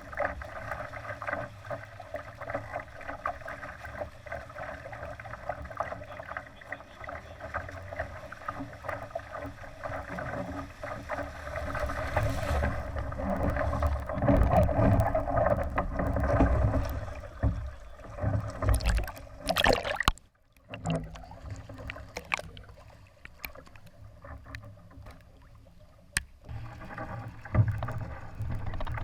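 Water rushing and splashing along the hull of a Laser sailing dinghy under way, with some wind. It swells louder for several seconds near the middle, then drops out abruptly for a moment.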